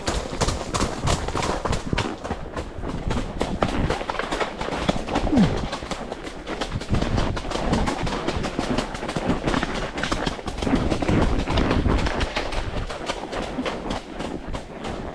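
A ridden horse moving along a trail: steady irregular hoofbeats with the knocking and rattling of tack, over a low rumble.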